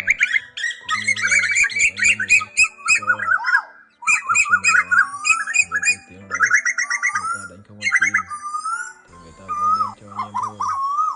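Asian koels calling in a dense, layered lure recording of male and female calls. It is made of rapid runs of sharp repeated notes, about ten a second, mixed with rising call notes, overlapping with little pause.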